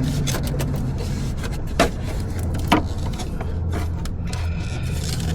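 Sharp clicks and knocks of hand tools and parts being handled in a minivan's engine bay, two louder knocks a second apart, over a steady low hum.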